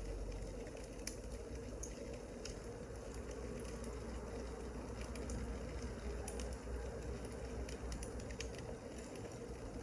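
Wood fire crackling: scattered sharp pops and snaps over a steady low hum.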